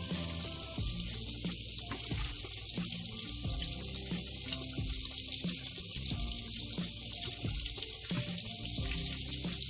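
Steady sizzle of herrings frying in oil, with the plastic spatula scraping and tapping in a frying pan as fried onion is lifted out and dropped into a pot of hot water.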